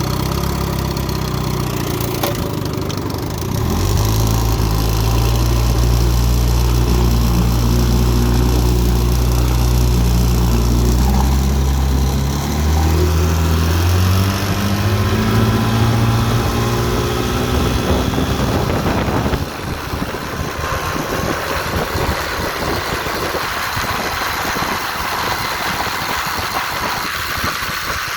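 A 1958 Johnson FD-12 18 hp two-stroke outboard motor running, picking up speed in steps with a rise in pitch around the middle. After about 20 seconds its note is drowned by rushing wind and water as the boat gets under way.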